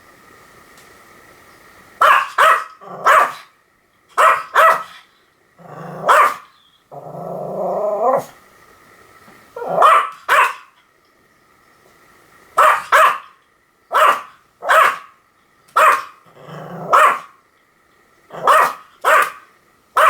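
A Pomeranian barking in quick clusters of two or three sharp, short barks, spaced a second or two apart. About seven seconds in it gives one longer growl.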